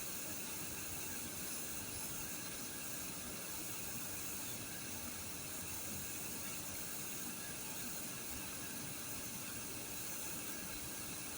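Steady faint hiss with no distinct events: background noise only.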